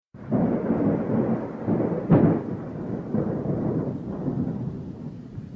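Rolling thunder rumble with a sharper crack about two seconds in, slowly dying away.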